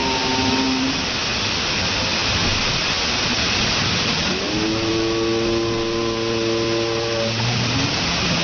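Waterfall's water rushing steadily, a dense even hiss. About halfway through, a held pitched sound with several layered tones rises in and runs for about three seconds over it.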